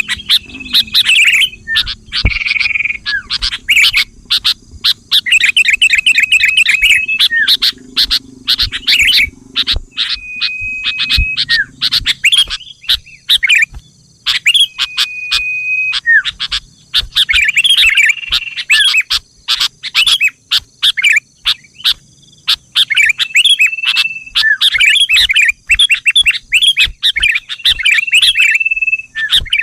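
Sooty-headed bulbuls (kutilang) calling in rapid bouts of chattering chirps, broken every few seconds by short held whistled notes, over a faint steady high-pitched hiss.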